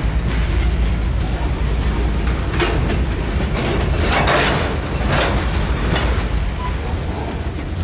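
A train passing close by: a steady heavy rumble, with rattling clatter from the wheels and cars surging up a few times, loudest about four seconds in.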